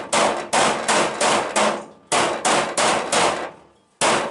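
A hammer striking sheet-steel car bodywork in a steady run of ringing blows, about three a second, with short pauses about two seconds in and near the end.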